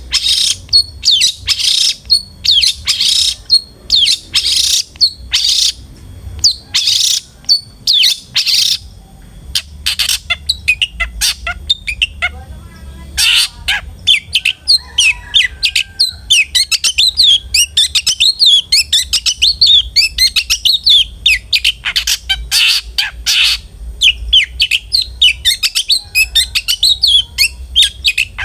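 Long-tailed shrike (cendet) calling loudly: a series of harsh, rasping calls about two a second, a short lower rattle about halfway through, then a fast, varied run of twittering song.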